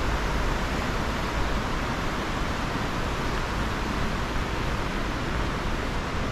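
Steady rush of flowing water from a nearby waterfall, an even, unbroken noise.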